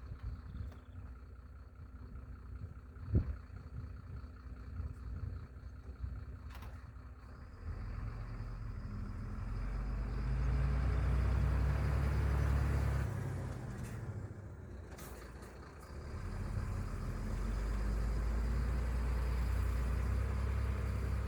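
A heavy engine running. It grows louder about eight seconds in, eases off briefly a few seconds later, then grows louder again. There is a single sharp knock about three seconds in.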